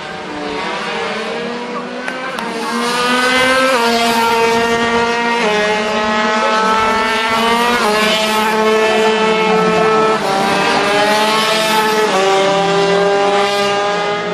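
50cc two-stroke racing motorcycle engines running at high revs past the track. The pitch shifts in steps every two seconds or so as the riders change gear, and the sound grows louder about two and a half seconds in as the bikes come closer.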